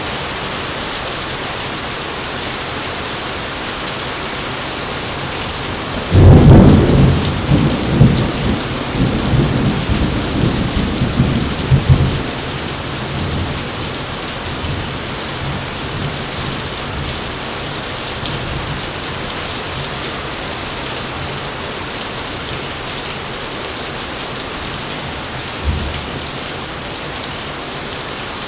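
Heavy rain falling steadily, with a thunderclap about six seconds in that breaks suddenly and rumbles on for about six seconds before fading back under the rain. A short, fainter rumble comes near the end.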